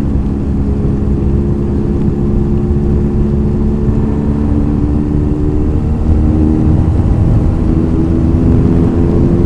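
Sports motorcycle engine running at steady revs while riding, with a low rumble of wind and road noise on the helmet microphone. It gets a little louder about six seconds in.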